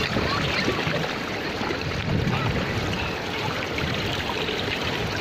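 Steady rushing of a small stream of water pouring down into the sea.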